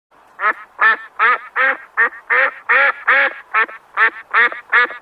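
An animal calling: about a dozen short calls in quick, even succession, a little over two a second.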